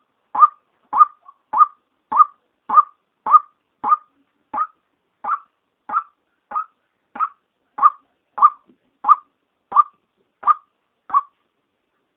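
Female white-breasted waterhen calling: a long run of short, identical notes, about one and a half a second, the call used to lure the birds in. The notes stop about a second before the end.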